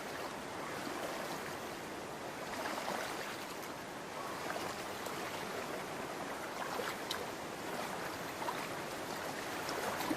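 Shallow stream water running and splashing, with a few brief sharper splashes in the middle stretch.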